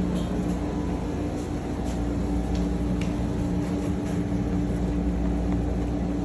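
A steady mechanical hum over a rushing background noise, with a few faint ticks.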